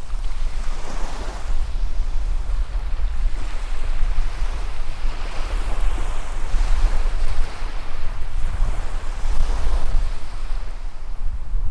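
Waves washing in on a sandy beach, surging and ebbing every couple of seconds, with wind buffeting the microphone as a low rumble underneath.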